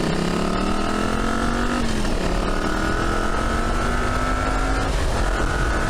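1982 Yamaha Virago XV750's air-cooled V-twin accelerating under way, its pitch climbing in each gear with quick upshifts about two and five seconds in.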